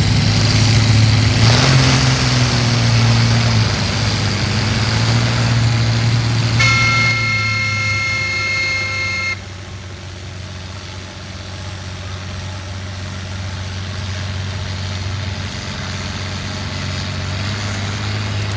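Tractor-pull tractor engine running loud and steady, with a horn sounding for about three seconds midway; when the horn stops the engine drops suddenly to a quieter level.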